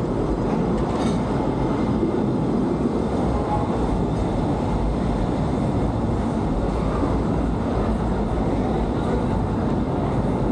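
Disneyland Railroad passenger train running along the track: a steady rolling rumble of the cars, heard from aboard the open-sided car.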